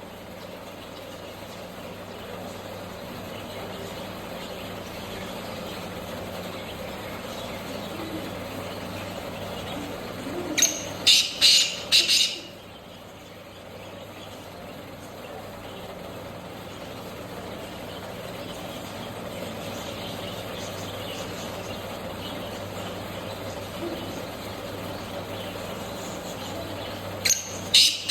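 Black francolin calling twice: each call is a quick series of four or five loud notes lasting about a second and a half, the first near the middle and the second starting just before the end. Between the calls there is a steady low background noise.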